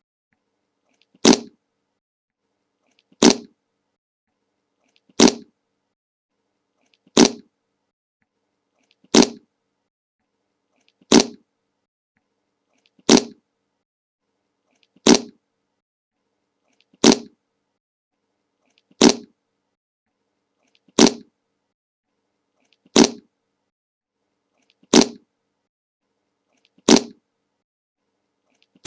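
A short fart sound effect played over and over, one burst about every two seconds with silence between, about fourteen times. Each burst starts sharply and trails off quickly.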